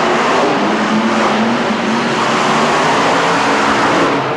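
Monster truck engine running loudly and steadily.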